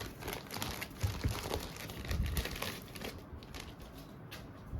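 Packaging crinkling and rustling as a phone is ripped out of its wrapping: dense irregular crackles for the first few seconds, then sparser handling noises.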